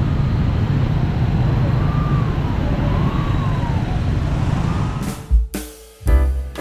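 Steady low rumble of street traffic with faint rising and falling tones, cut off about five seconds in by music that opens with sharp drum hits.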